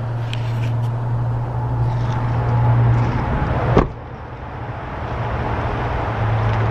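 Pickup truck engine idling with a steady low hum, broken a little under four seconds in by one sharp knock, after which the sound briefly drops lower before the hum returns.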